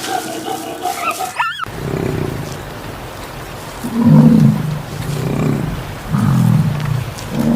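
Animal calls from a compilation of animal sounds: a pitched call ending in a quick rising glide, then, after a cut, a run of low, deep calls about once a second.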